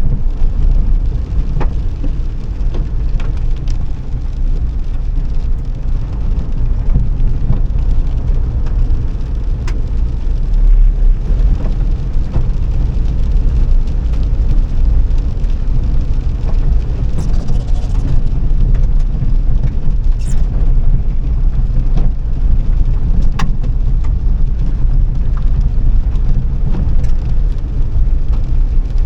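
Car being driven: a steady, loud low rumble of engine and road noise, with a few scattered faint clicks and knocks.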